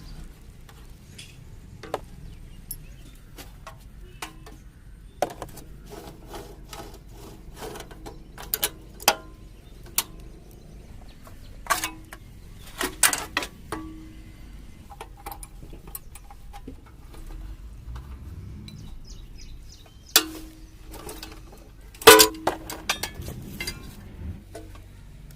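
Irregular metallic clinks and knocks of hand tools on moped parts, some ringing briefly, with the two loudest strikes near the end.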